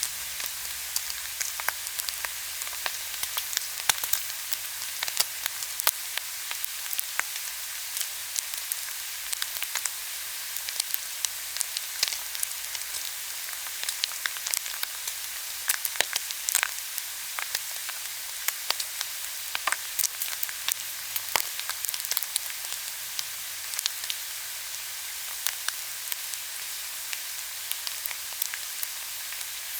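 Pork belly grilling in its own fat: a steady high sizzle with frequent sharp pops and crackles of spattering fat.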